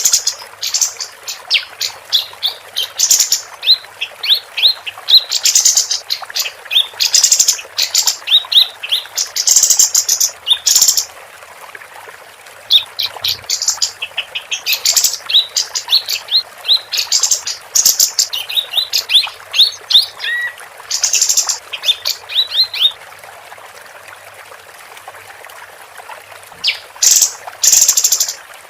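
Female kapas tembak singing: rapid strings of short, high chirps mixed with harsher rasping notes, delivered in bursts with two short pauses.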